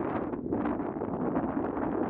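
Gusty wind buffeting the microphone: a rushing noise that swells and dips, with a brief dip about half a second in.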